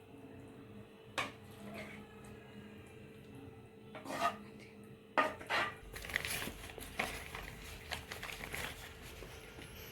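A cooking utensil clinking and scraping against a pan and serving bowl while stir-fried chicken is spooned out. There are a few separate knocks, then a busier stretch of scraping and clinking in the second half.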